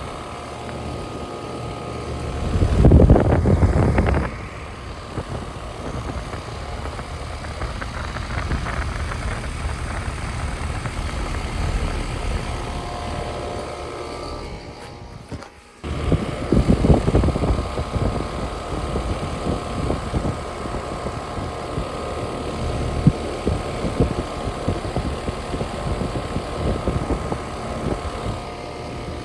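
Outdoor air-conditioner units running with a steady mechanical hum holding a few steady tones. Louder, noisier stretches come about three seconds in and again from about sixteen seconds, just after a brief drop-out.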